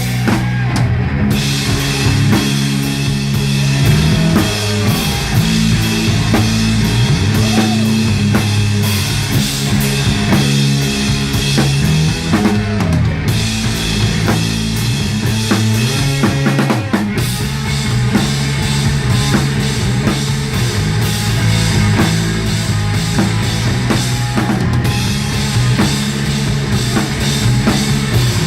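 Rock band playing live at full volume: a pounding drum kit with bass drum and snare over a low bass line that holds and shifts notes, with dense guitar sound above.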